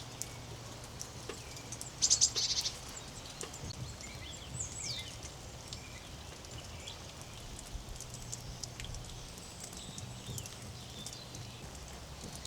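Songbirds calling outdoors: a loud, rapid high trill about two seconds in, then falling whistled notes. Scattered soft ticks of dripping rain run under them.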